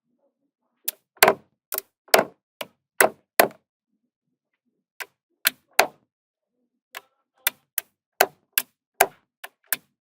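Small magnetic balls snapping onto one another, about twenty sharp clicks in uneven runs with short pauses between them.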